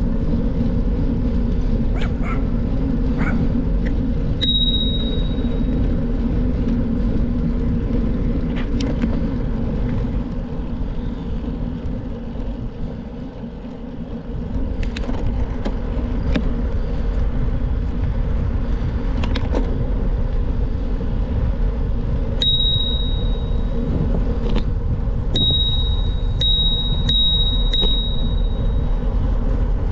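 Steady rumble of wind and tyres while riding a bicycle, with scattered clicks and knocks. A bicycle bell rings once a few seconds in, once about two-thirds through, then several times in quick succession near the end.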